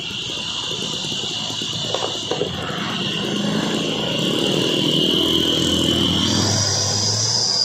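Heavy truck engine labouring, growing steadily louder as it comes closer. Over it runs a steady high-pitched drone like insects, which jumps higher in pitch about six seconds in.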